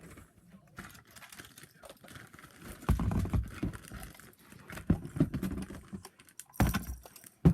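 Irregular clicks, knocks and rattles of small objects being handled, with heavier thumps about three seconds in and near the end.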